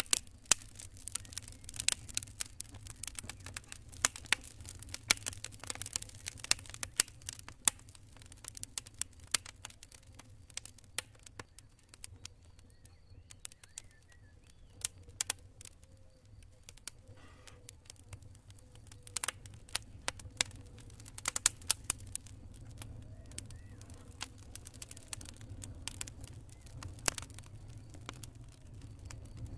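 Campfire crackling: wood popping and snapping in irregular sharp clicks, thickest in the first several seconds and again past the middle, over a steady low rumble.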